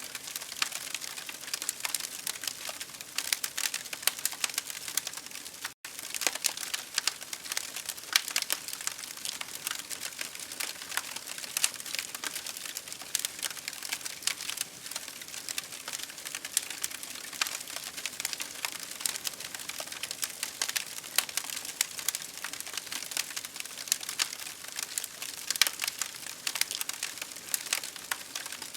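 Campfire crackling, a dense, steady stream of small pops and snaps. The sound cuts out for an instant about six seconds in.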